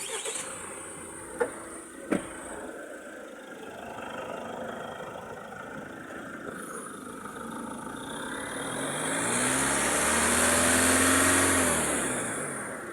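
Mahindra Thar ROXX engine revving up under throttle and easing off again, with no buzzing rattle from the engine bay. The rattle has just been cured by clamping a loose part. Two short clicks come near the start.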